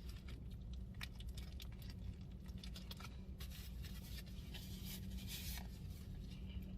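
Faint scratchy rustling and light clicks, like food or a wrapper being handled, over a steady low hum.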